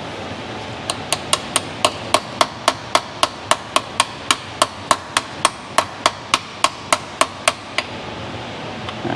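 A hammer tapping a 5/16-inch six-point socket onto a bolt head to seat it: about 25 quick, evenly spaced light metal-on-metal taps, roughly three to four a second, starting about a second in and stopping near the end.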